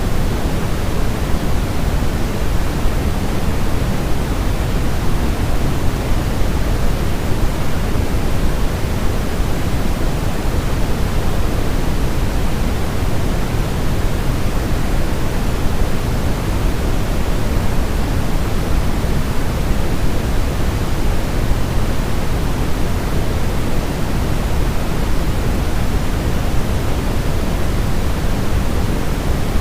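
Steady, loud, electronically generated noise: an even rush with most of its strength in the low end, closer to pink noise than pure white noise.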